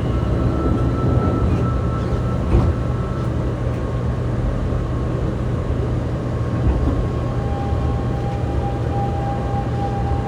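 Steady hum inside a Fukuoka City Subway 2000 series car standing at the platform, with a thump of the doors shutting about 2.5 s in. About 7 s in, the Hitachi GTO-VVVF inverter starts a steady whine as the train pulls away.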